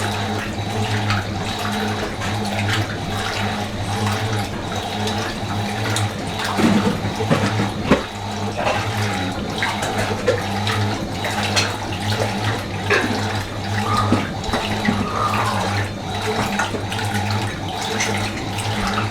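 Fisher & Paykel MW512 washing machine running with water rushing in its tub over a steady low hum, with a few small knocks, the sharpest about eight seconds in.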